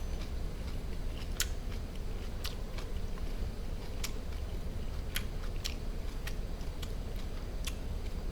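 Close-up chewing of barbecued duck meat, the mouth sounds broken by sharp crisp clicks about once a second.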